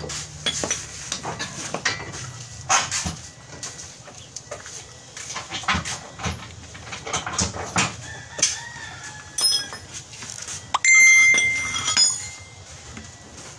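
Scattered metal clinks and taps of hand tools during steering rack repair work, with a louder, ringing, pitched sound lasting about a second near the end.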